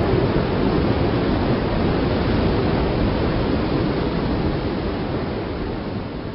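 Thunderstorm sound effect: a steady rush of wind-and-rain noise that slowly fades toward the end.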